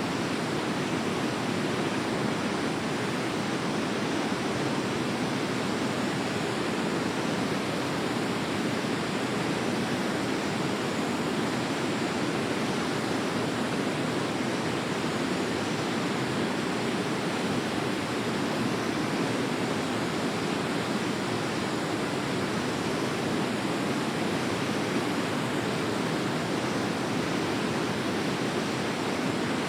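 Forest stream rushing steadily over rocks, an even flow with no change.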